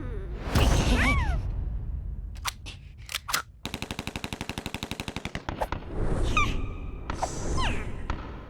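Cartoon sound effects: a few sharp hits, then a fast rattle of clicks for about two seconds, about fourteen a second. Squeaky cartoon voices with wavering, rising and falling pitch come before and after the rattle.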